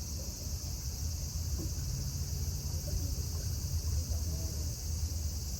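Steady high-pitched drone of insects, even and unbroken, over a constant low rumble.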